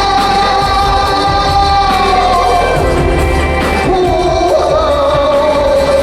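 Live K-pop concert music: a singing voice holds long notes over a backing track with heavy bass.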